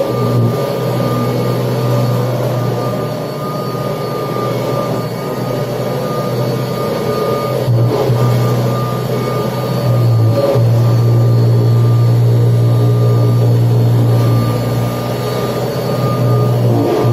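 1979 Kirby Tradition upright vacuum cleaner running steadily as it is pushed over the floor: a low motor drone with a steady high whine on top, getting louder for the last several seconds, with two light knocks in the middle.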